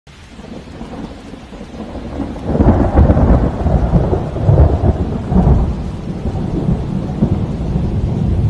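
Thunder rolling over steady rain, swelling from quiet into loud rumbling surges about two and a half seconds in.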